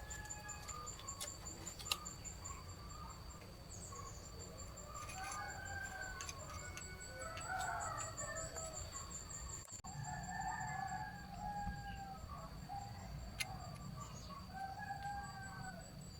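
Chickens calling: a string of short calls, over a steady high-pitched tone.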